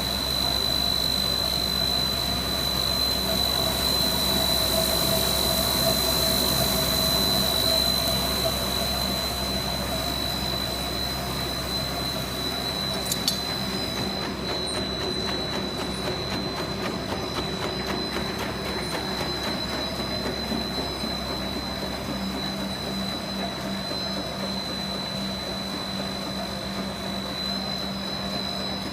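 Automatic snack-frying production machinery running: a steady mechanical noise with a constant high-pitched whine and a low hum, slightly louder in the first several seconds. A single sharp click sounds about thirteen seconds in.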